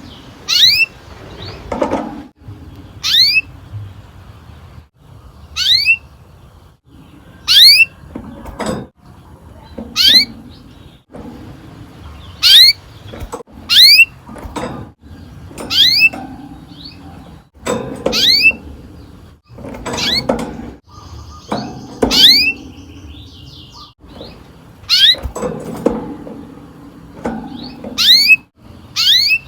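Canary giving repeated sharp chirps, each a quick downward sweep from very high to lower pitch, roughly one every second or two, with low thumps under many of them.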